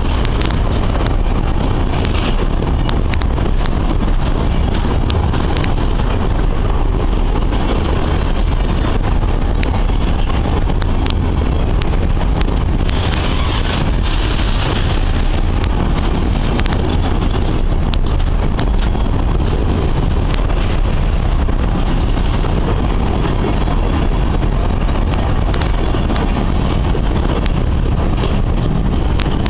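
Freight train of empty grain wagons rolling by: a steady heavy rumble of wheels on rail, with scattered sharp clicks.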